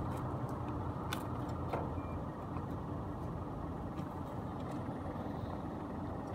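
Car engine idling steadily, heard through an open window, with a few faint clicks.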